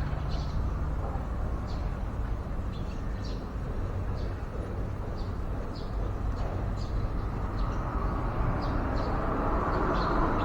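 Small birds giving short, high chirps, about one or two a second, over a steady low background rumble.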